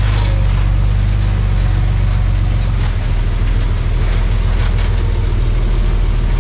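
Heavy diesel engine of a Komatsu D51PX bulldozer running steadily under work, its note shifting slightly about three seconds in, with a few faint clanks.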